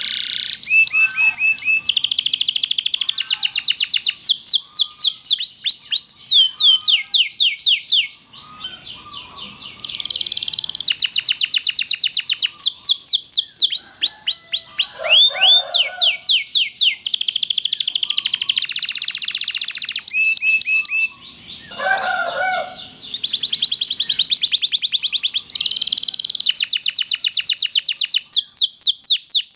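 Canary singing long, rapid rolling trills made of fast repeated down-sweeping notes, broken by two short pauses, about 8 s and 21 s in.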